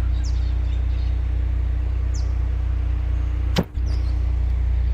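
Honda S2000's four-cylinder engine idling steadily. A few brief high chirps come in over it, and there is a single sharp click about three and a half seconds in.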